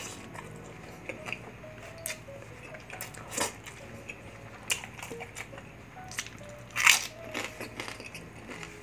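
Close-miked chewing and mouth sounds of someone eating rice by hand: scattered crunches and wet clicks, the loudest about seven seconds in, over faint background music.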